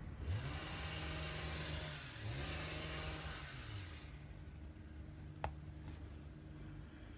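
Petrol string trimmer (strimmer) running and revving up and down several times, its engine pitch rising and falling. A single sharp click sounds about five and a half seconds in.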